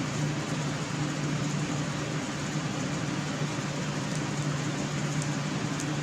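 A steady mechanical hum with an even hiss, unchanging throughout, with a few faint light ticks in the last couple of seconds.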